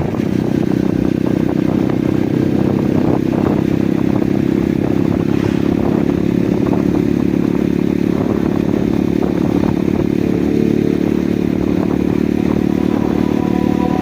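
Motorcycle engine running at a steady speed while riding, with scattered clatter and rattling over the road.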